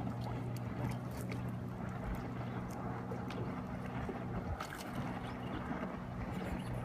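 A boat's engine idling with a steady low hum, with scattered small water splashes and sloshes over it.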